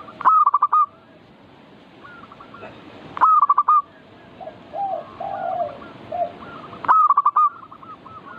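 Zebra doves (perkutut) cooing: three bursts of rapid staccato coos, about three and a half seconds apart, with softer, lower calls between the second and third, over a steady hiss.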